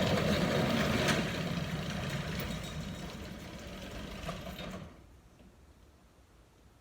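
Sectional garage door being lowered by hand, its rollers rumbling along the tracks, with a couple of knocks. The rumble fades a little and stops suddenly about five seconds in.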